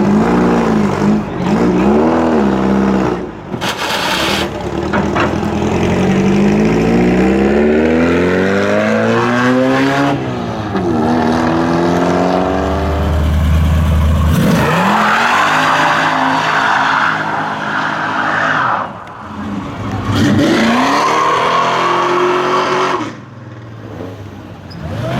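A car engine revving hard, rising and falling in pitch several times. About halfway through, tyres start squealing under full throttle in a burnout, with the engine held high; it eases off briefly twice.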